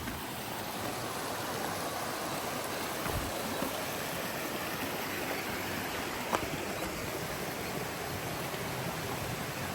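Steady rush of falling and flowing water at a rainforest waterfall. There is a faint tick about six seconds in.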